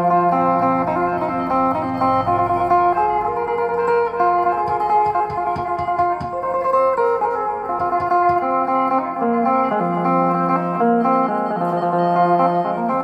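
Acoustic-electric phin, the Isan lute, played through its pickup: a fast picked melody over a steady drone, with a backing music track.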